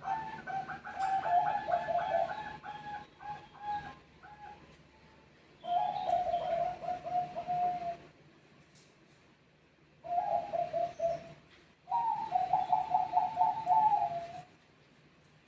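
Bangkok-type zebra doves (perkutut) cooing back and forth: four bouts of rapid, rolling coos separated by short pauses, the longest at the start.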